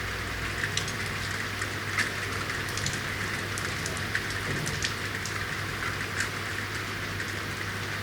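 Steady rain falling in a city street, an even hiss with scattered individual drops ticking sharply on hard surfaces, over a low steady hum.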